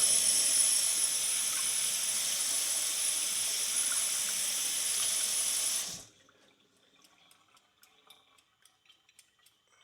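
Sink tap running full, water hissing into the basin over a horseshoe being rinsed; the tap is shut off suddenly about six seconds in, leaving only faint drips and small taps.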